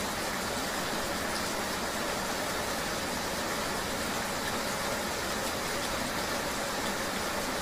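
Steady rain ambience mixed with a low vehicle rumble: an even, unbroken hiss with no distinct drops, knocks or passing events.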